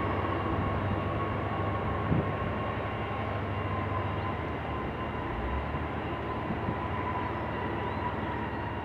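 Jet airliner's engines whining steadily over a low rumble as it rolls out along the runway after landing, the whine sinking slowly in pitch and level as the engines wind down.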